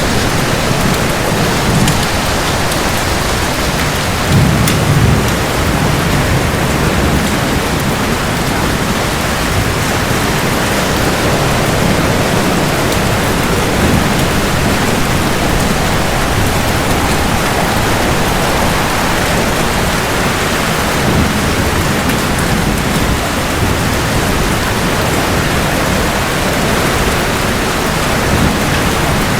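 Heavy rain falling steadily, with low rolls of thunder rumbling underneath, most strongly around four to five seconds in.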